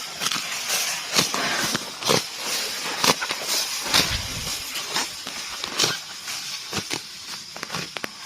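Water buffalo grazing: grass ripped off in crisp tearing crunches about once a second, with rustling chewing between them.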